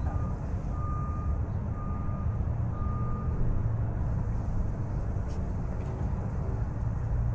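A vehicle's reversing alarm beeping at one steady pitch about once a second, four beeps that stop after about three seconds, over a steady low rumble.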